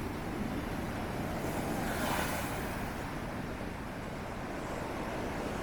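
Strong wind blowing in a steady rush of noise, swelling briefly about two seconds in.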